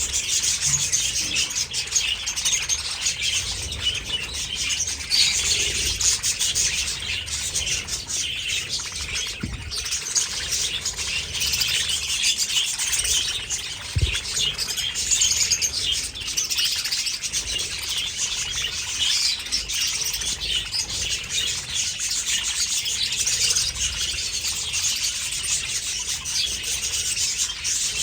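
A large flock of budgerigars chattering and chirping all at once, a dense, continuous warble of many overlapping calls.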